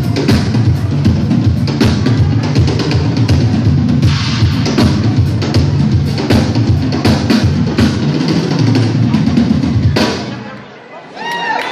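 Live rock band playing loudly, with the drum kit's bass drum and snare to the fore; the music stops about ten seconds in.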